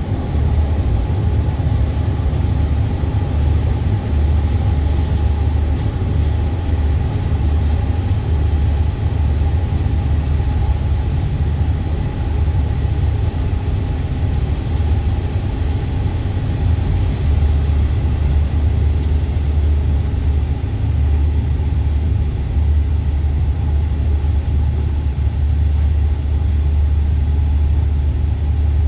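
Steady low rumble of a moving passenger train, heard from inside the carriage: wheels running on the rails, with faint clicks about five and fourteen seconds in.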